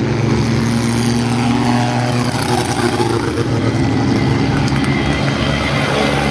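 Tractor engine running loudly with a steady low note, its pitch shifting briefly about two seconds in.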